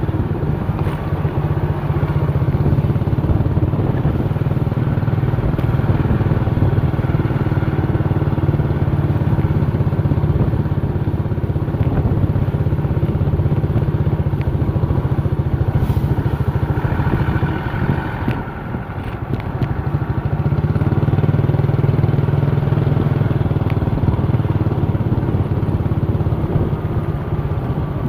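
An old, heavily loaded truck's engine running steadily with a low drone. It eases off briefly about two-thirds of the way through, then picks up again.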